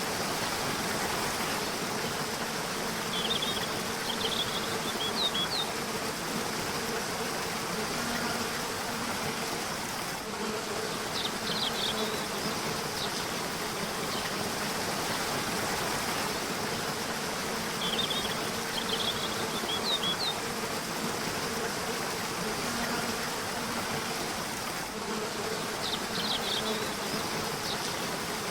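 Steady rushing of a river or waterfall under four short clusters of high bird chirps, spaced about seven seconds apart, with a low buzzing hum underneath.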